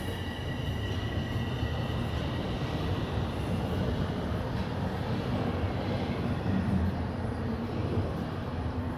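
Toronto subway Line 1 train running, heard from inside the car: a steady low rumble of wheels on rail. A thin high whine fades away in the first few seconds, and a low hum comes up near the end.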